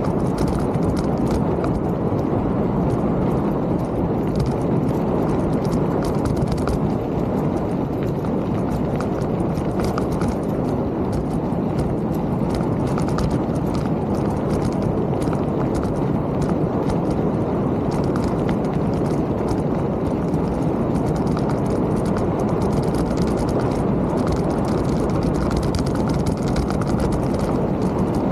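Mountain bike ridden over a trail: a steady rumble of wind on the microphone with an irregular rattling clatter of the bike over rough ground.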